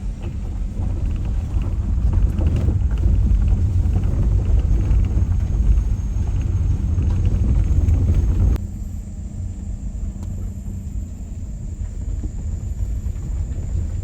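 Low, steady rumble of a vehicle engine with a constant hum, which drops abruptly in level about eight and a half seconds in.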